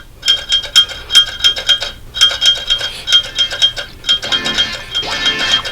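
Rapid metallic clinking: a small metal object struck over and over, about three or four times a second, each strike ringing at the same high pitch. In the last second and a half the strikes come denser and noisier.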